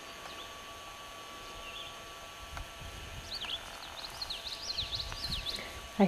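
Faint outdoor ambience: a small bird chirps in quick, short up-and-down notes, starting about three seconds in and lasting about two seconds, over a low background rumble.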